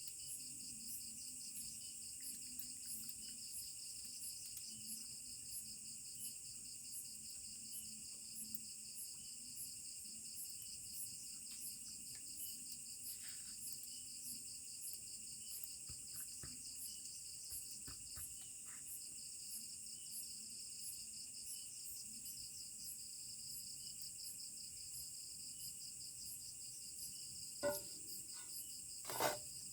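Crickets and other insects chirring steadily in several layers, one of them pulsing about once a second. Two short, sharp cracks come near the end.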